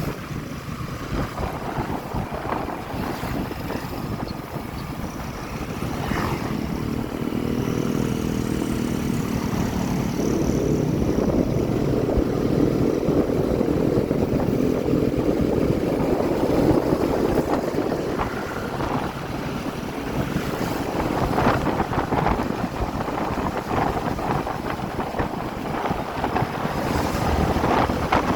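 Motorcycle engine running while riding, with wind buffeting the microphone. The engine grows louder about a quarter of the way in and stays stronger for roughly ten seconds before easing back.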